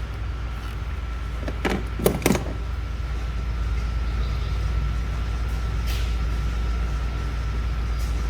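Steady low background hum, with a cluster of sharp knocks and clatters about two seconds in and a faint click later, from dashboard parts being pushed and handled.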